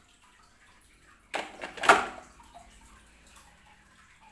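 Plastic toys being handled: a brief rustle, then a sharp knock about two seconds in.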